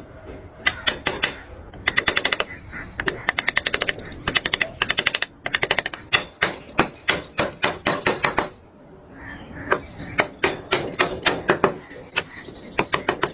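Hand-held carving tool tapped against wood in quick runs of sharp taps, about ten a second, with short pauses between the runs.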